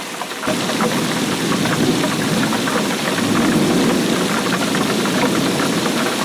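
Steady rainfall with a dense patter of close drops striking a surface, growing louder about half a second in.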